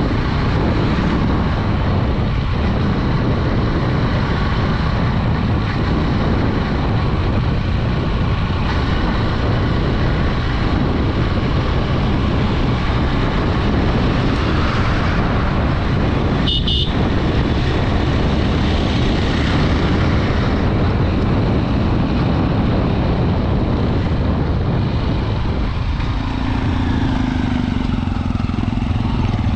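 Honda Dream 110 motorcycle's single-cylinder 110cc engine running at riding speed, under heavy wind rush on the microphone. A short horn beep sounds a little past halfway through.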